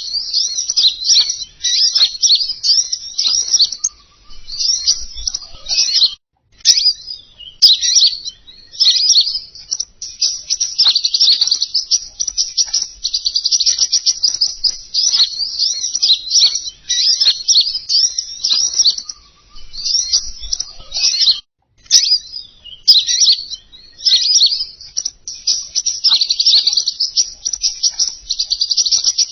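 Rapid, high-pitched chirping and twittering of a small songbird, a looped lure call for the king konin bird. It breaks off briefly about six seconds in and again about twenty-one seconds in.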